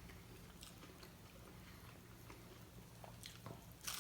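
Faint chewing of a taco, with a few soft mouth clicks and a slightly louder click near the end, over a low steady room hum.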